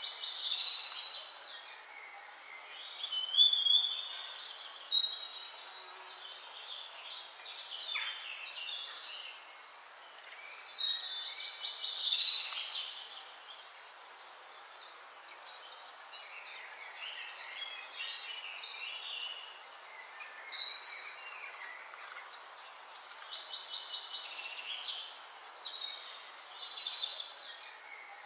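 Songbirds singing: bursts of quick, high chirping and warbling phrases every few seconds over a faint steady hiss.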